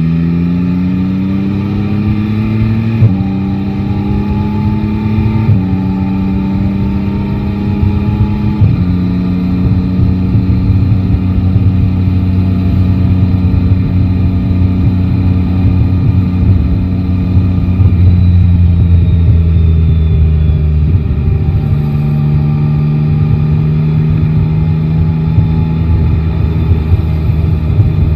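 Yamaha Tracer 9 GT's three-cylinder engine pulling up through the gears, its pitch climbing and then stepping down at each of three upshifts in the first nine seconds. It then cruises at a steady pitch, easing off once around twenty seconds in.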